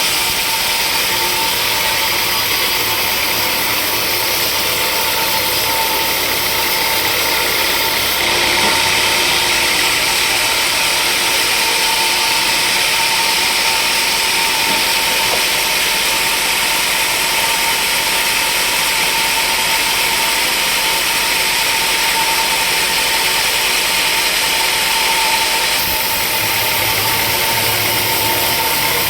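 Sawmill machinery running steadily and loudly, with a steady whine. It turns harsher and hissier about a third of the way in and eases back near the end.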